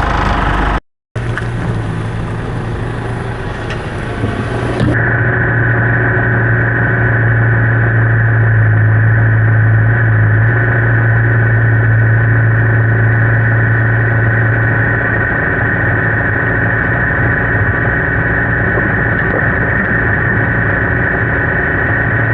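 Tractor engine running steadily, with a brief cut about a second in; from about five seconds in a steady high whine sits over the engine note.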